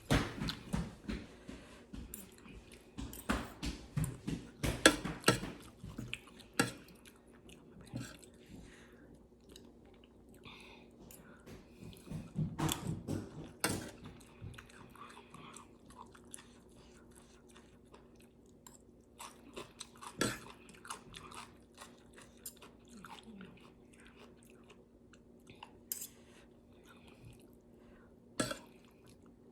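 A person chewing and biting close to the microphone, eating a spicy chicken-foot salad, with wet smacking and crunching clicks. The chewing comes in busy spells at the start and again about twelve seconds in, thinning to a few single clicks later, over a faint steady hum.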